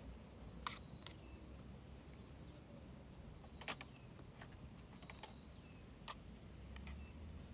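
Wood fire crackling: a few sharp, isolated pops spaced a second or more apart over a low steady rumble, with faint high chirps in the background.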